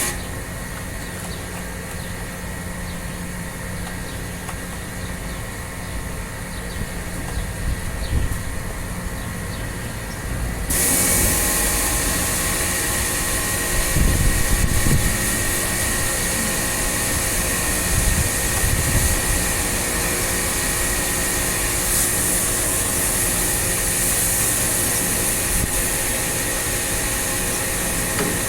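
A motor runs steadily with a hum throughout. About a third of the way in, a loud rushing hiss starts suddenly and carries on to the end.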